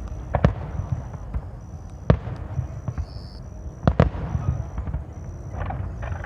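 Fireworks bursting: three sharp bangs about two seconds apart, over a steady low rumble.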